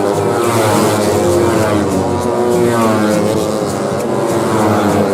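Several 150cc Yamaha race motorcycles at high revs, their overlapping engine notes rising and falling as the riders shift and race past.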